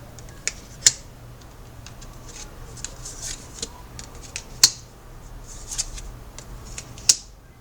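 Tarot cards being handled on a table: papery sliding and swishing, with sharp snaps as cards are laid down, three of them louder than the rest.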